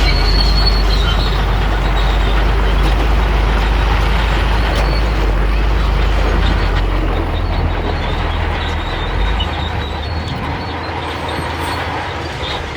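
Heavy diesel earth-moving machinery working: a loud, steady engine rumble with dense mechanical noise. The deepest part of the rumble eases about nine seconds in.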